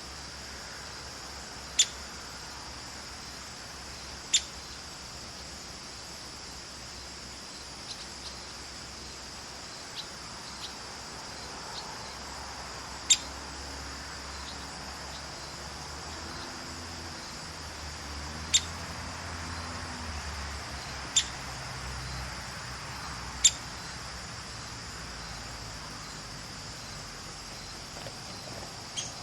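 Downy woodpecker giving short, sharp single pik calls, six loud ones at irregular intervals with a few fainter ones between, over a steady high hiss.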